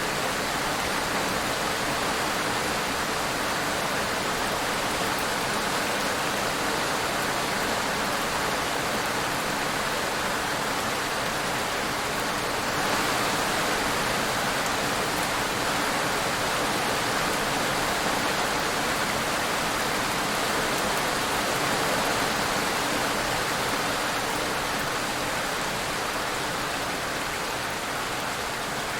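Steady rainfall, an even hiss of drops with no distinct single hits, growing a little louder about halfway through.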